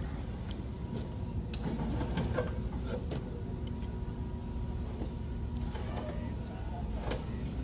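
Volvo D16F 16-litre inline-six diesel truck engine running at a steady speed, with a few light clicks and knocks over it.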